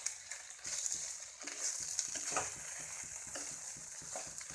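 Chowmein noodles sizzling in a hot pan on a high flame, a steady hiss, with a cooking utensil scraping and knocking against the pan every so often as it is stirred.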